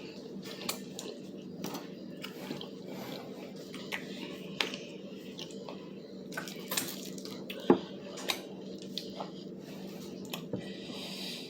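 Someone eating crispy fried chicken: scattered sharp crunches and clicks with chewing and mouth sounds over a steady background hum.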